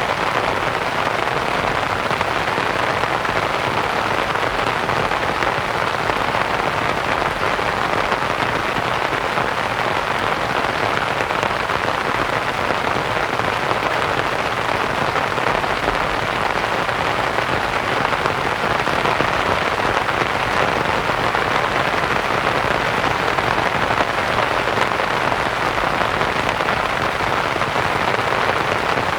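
Steady rain on a canvas tent, a dense even patter mixed with white noise.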